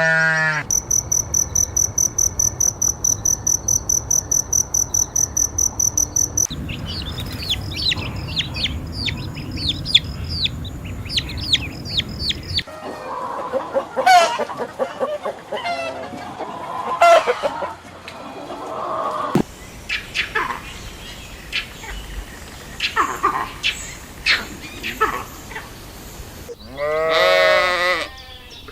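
A run of different animal calls. First a fast, evenly pulsing high trill, then repeated quick falling chirps, then a mix of chirps and clucking calls, and near the end a bleat-like wavering call.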